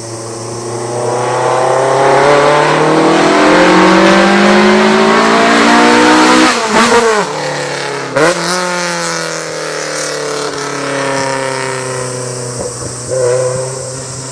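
Toyota AE86 Trueno's 4A-GE four-cylinder running loud through a CBY muffler with a Kakimoto inner straight pipe, rising steadily in pitch for about six seconds under acceleration. The sound then breaks off sharply twice, about a second and a half apart, before the pitch falls away slowly, with a short blip near the end.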